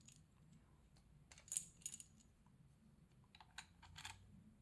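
Near silence with a few faint, sharp clicks: two about a second and a half in, then a short cluster near the end.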